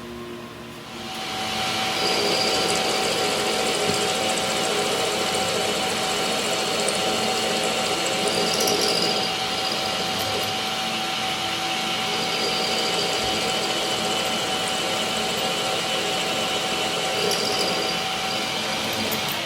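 A power tool starts about a second in and runs steadily with a whine, with two brief sharper passes as it works the metal.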